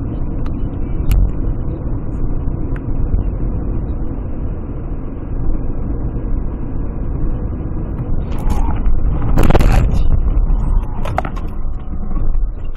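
Car driving, with steady road and engine rumble and a louder rush of noise about nine and a half seconds in.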